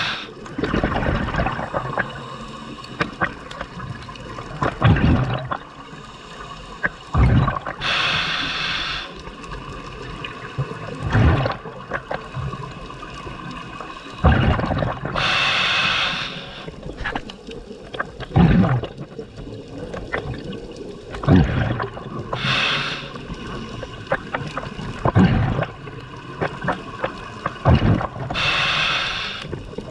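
Scuba diver breathing through a regulator underwater: a hiss about every seven seconds, with bursts of bubbling and gurgling in between.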